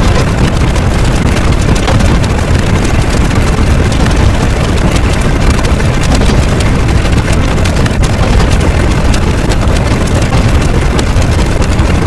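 A loud, steady rumbling noise, heavy in the low end and without a clear pitch, of the kind made by a large running engine.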